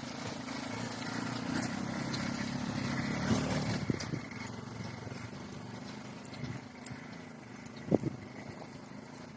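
A distant motor engine humming, growing slightly louder over the first four seconds and then fading away, like a vehicle passing by; a single short knock about eight seconds in.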